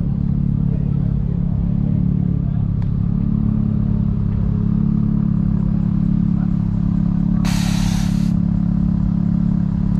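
A vehicle engine running steadily at idle close by, a constant low drone, with a short burst of hiss about three quarters of the way through.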